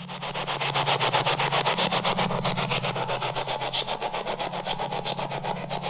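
Ghost-box radio scanner (spirit box) sweeping through stations: loud static chopped into fast even pulses, about ten a second, switched on suddenly.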